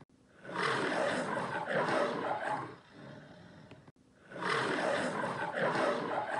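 Lion roaring: two roars about four seconds apart, each about two seconds long, tailing off more quietly before an abrupt cut.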